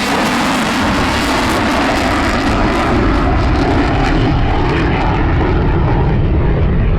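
Eurofighter Typhoon's twin EJ200 jet engines roaring on a slow high-alpha pass, with a deep rumble building about a second in as power is put back on.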